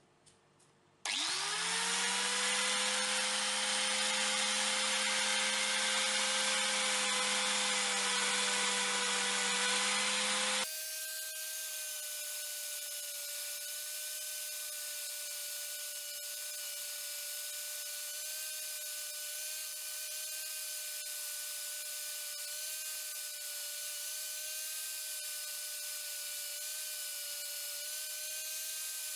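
A small electric power tool spins up about a second in, its pitch rising quickly to a steady run. Near the middle it cuts abruptly to a steady, higher-pitched whine from a power tool running for the rest.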